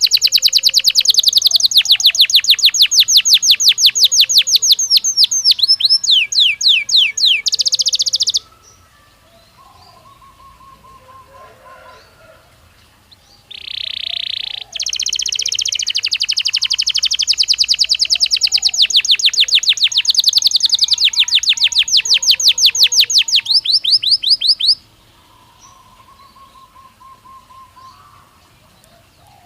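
Belgian canary singing long phrases of rapid, high repeated trill notes. The first phrase slows into falling sweeps and stops about eight seconds in. After a pause comes a short buzzy note, then a second long trilled phrase that ends about five seconds before the close. Faint chirps fill the gaps.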